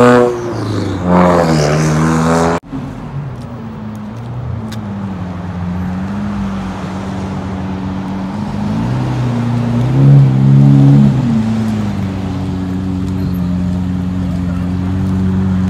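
A passing car's engine revs hard for the first couple of seconds, its pitch rising and falling. It cuts off abruptly, and a Lamborghini Aventador's V12 takes over, running low and steady as it rolls slowly forward. The V12 gives a short rev about ten seconds in.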